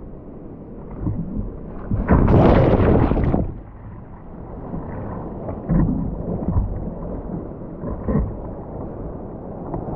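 Rumbling rush of wind and snow on the microphone of a camera carried while skiing, with a much louder surge lasting about a second and a half starting two seconds in, and a few smaller thumps later.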